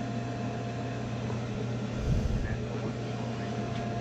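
Steady low hum of running HVAC equipment, with a faint thin tone above it. There is a brief low thump about two seconds in.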